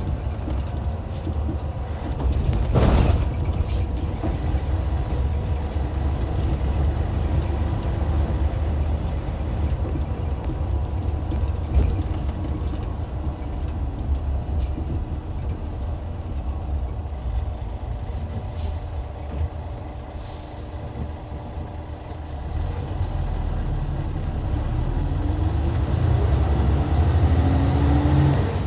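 Hyundai D6CC straight-six diesel of a Hyundai Universe coach running under way, with a steady low rumble. A short sharp burst of air about three seconds in is typical of the air brakes. Near the end the engine comes on harder, its pitch and loudness rising as the bus accelerates.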